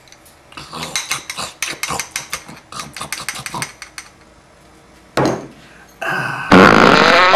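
A quick run of light clicks and clinks, about five or six a second, then a loud pitched sound with several tones near the end.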